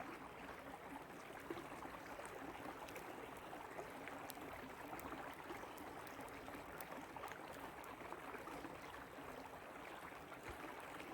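Shallow creek water babbling over rocks: a steady, faint rushing with scattered small splashes.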